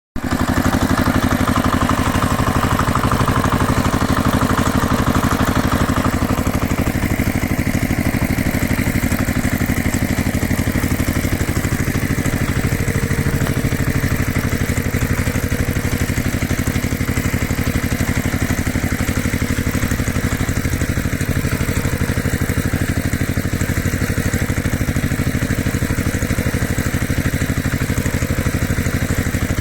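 Tractor engine running steadily at idle. It cuts in abruptly, and a higher whirring part of the sound drops away about six seconds in.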